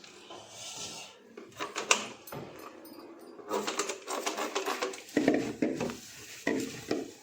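Cleaning sounds as a fridge is wiped down with Colin glass cleaner: a few sharp clicks about two seconds in, then stretches of quick, scratchy rubbing.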